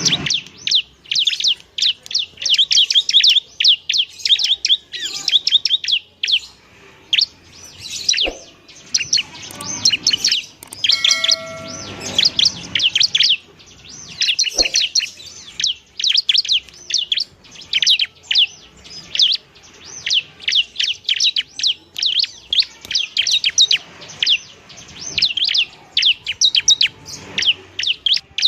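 Bar-winged prinia (ciblek) singing in fast, continuous runs of high, sharp chirps, thinning briefly about six to eight seconds in.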